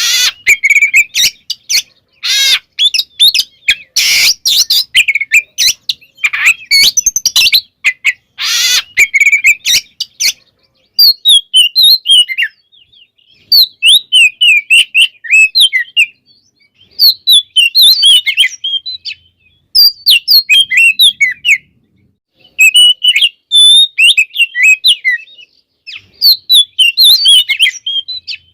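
Oriental magpie-robin (kacer) singing loudly. For the first ten seconds it gives harsh, scratchy rasping calls, then it sings bursts of quick, varied whistled phrases separated by short pauses.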